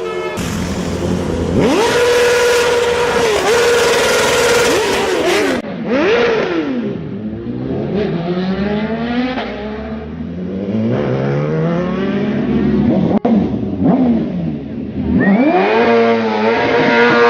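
BMW S1000RR inline-four engine revving hard: the revs are held high for a few seconds, then drop and climb again several times, with a run of rising sweeps like an acceleration up through the gears.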